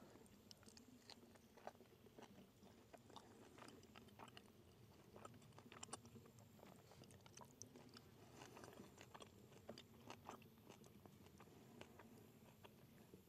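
Faint chewing of food, with many small irregular clicks and crunches.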